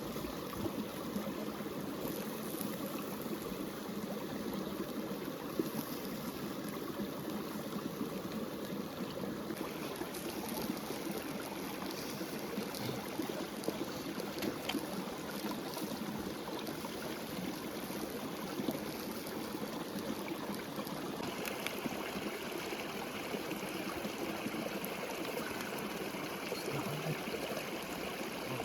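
River water flowing: a steady, continuous rush and trickle. About twenty seconds in, the sound turns a little brighter and hissier.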